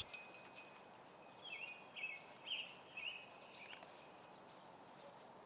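A bird calling faintly: a run of five short, high chirps about half a second apart, starting about one and a half seconds in, over quiet outdoor background.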